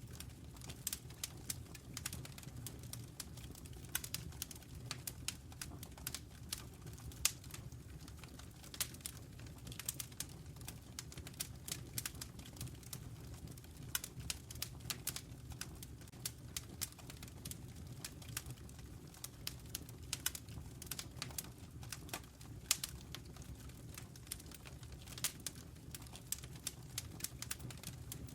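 Wood fire burning in a fireplace: a dense, irregular crackle of sharp pops and snaps, several a second, over a steady low rumble.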